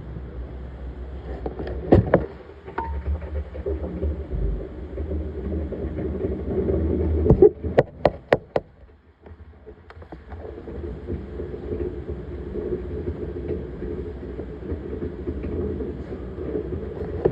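Laundromat laundry machine running with a steady hum. There are a few sharp clicks about two seconds in and a quick run of clicks near the middle, then a short drop in level before the hum resumes.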